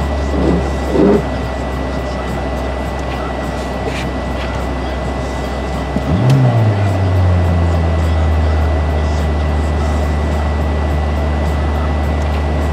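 A motor running steadily with a low hum and a thin, steady high whistle. About six seconds in, the hum drops and briefly rises in pitch before settling back.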